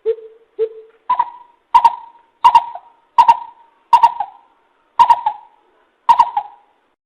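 Greater coucal calling: a series of nine short hooting notes, the first two lower and the rest higher, with the gaps between them slowly lengthening.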